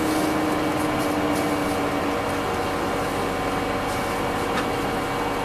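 Scania OmniLink CL94UB city bus heard from inside the passenger cabin while under way: a steady engine and drivetrain hum with a whine that falls slowly in pitch and fades about two seconds in.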